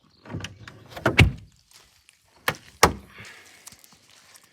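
An MG Midget's car door being worked: a light rattle, a heavy clunk about a second in, then two sharp knocks in quick succession.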